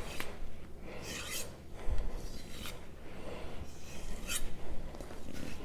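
Knife blade stroked along a strop in four separate swishing strokes, a second or more apart.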